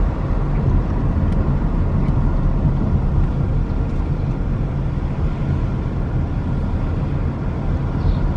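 Car driving, with a steady low engine and road rumble heard from inside the cabin.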